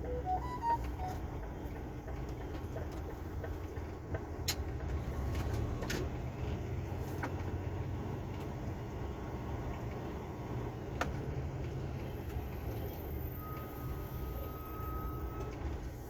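Articulated truck's diesel engine running with a steady low rumble. A few sharp clicks and knocks come through, and a brief high steady tone sounds near the end.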